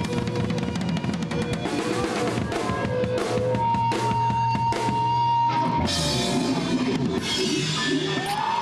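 Live rock band playing, the drum kit to the fore with electric guitar; cymbals crash from about six seconds in.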